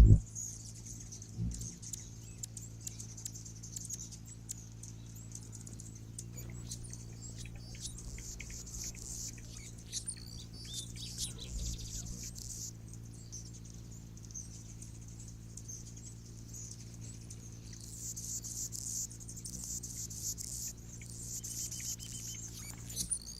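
Small birds twittering and chipping in high, scratchy runs that come and go, over a steady low hum.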